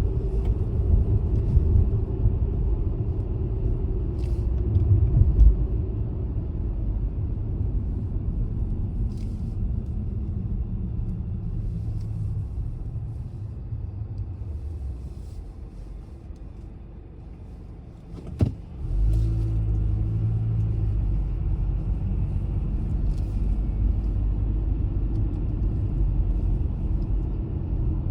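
A car driving: low road and engine rumble that falls in pitch and fades as the car slows nearly to a stop. A single sharp click comes about two-thirds of the way through, then the rumble comes back louder as the car pulls away.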